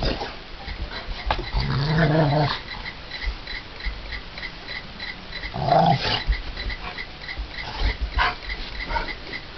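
Dogs fighting, with a long growl about two seconds in and a shorter, loud growl about six seconds in, among scattered yelps and scuffling knocks.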